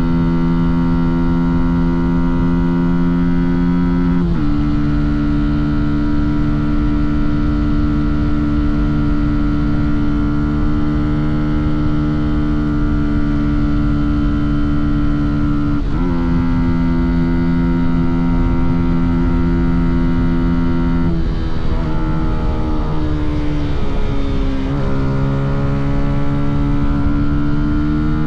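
Fantic Caballero 125 motorcycle's single-cylinder four-stroke engine and exhaust running under way at steady revs, with sudden drops in pitch at gear changes about four seconds in and again about sixteen seconds in. About two-thirds through the revs fall away unevenly as the bike slows, then drop once more and climb again near the end as it accelerates.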